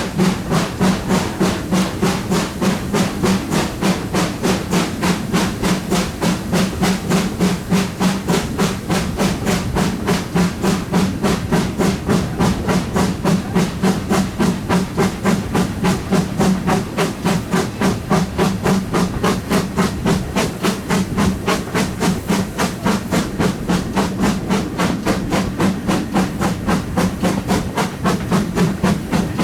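GWR Manor-class 4-6-0 steam locomotive 7820 Dinmore Manor working hard, its two-cylinder exhaust beating loudly and evenly at about three beats a second, with steam hiss.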